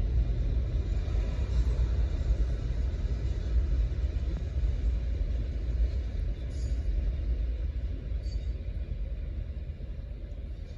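Autorack freight train rumbling low and steadily as it moves away, slowly fading.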